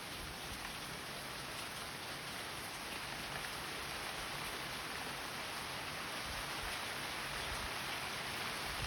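Steady rain falling, a dense even hiss that builds slowly louder.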